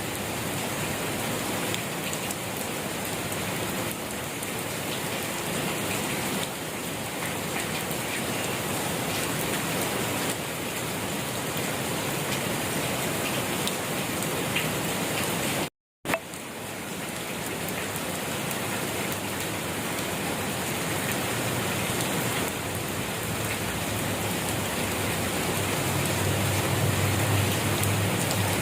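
Steady rain falling, a dense even hiss of drops on surfaces. About halfway through it cuts out for a split second and comes back with a click.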